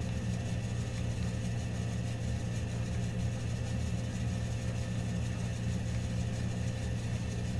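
Steady low mechanical hum that holds unchanged throughout.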